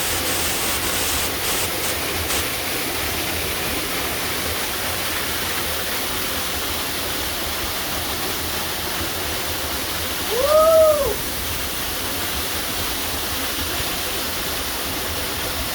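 Waterfall pouring down in a steady, heavy rush of water. About ten seconds in, one short voice-like call rises and falls in pitch over the water.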